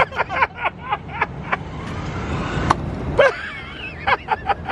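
Steady jet airliner cabin drone, with a string of short, sharp clicks and brief snatches of faint voice-like sound over it.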